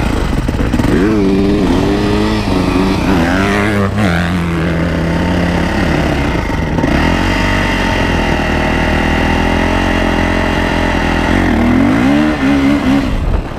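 Dirt bike engine revving hard, its pitch climbing and dropping several times as the rider accelerates through the gears. It then holds a steady pitch for a while and revs up and down again near the end.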